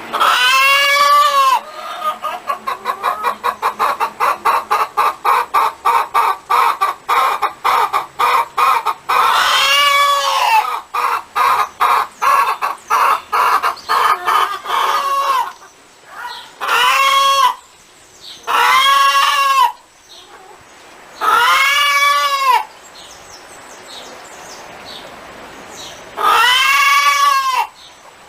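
Hen cackling: fast runs of short clucks, about four a second, broken by long drawn-out rising-and-falling calls. The calls come close together at first, then spaced out near the end.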